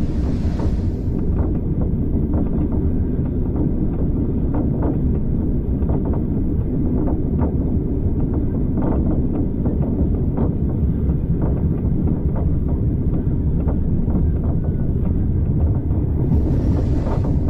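Steady low rumble of a railway passenger carriage running along the track, with scattered clicks and knocks from the wheels on the rails. A brief hiss rises near the start and again near the end.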